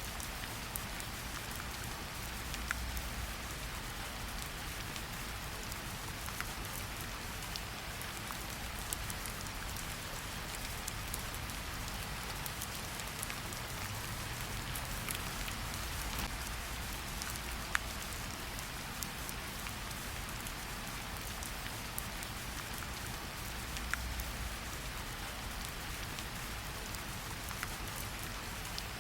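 Steady rain falling in a forest, a continuous patter with scattered sharper individual drops ticking close by.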